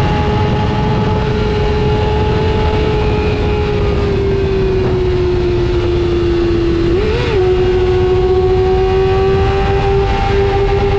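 Superbike engine held at high, near-steady revs with heavy wind rush, the pitch sagging slightly and then climbing slowly again after a brief blip about seven seconds in.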